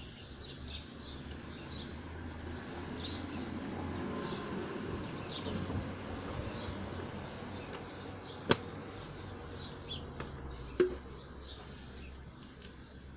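Small birds chirping over and over, with rustling and two sharp clicks, the loudest sounds, about eight and a half and eleven seconds in.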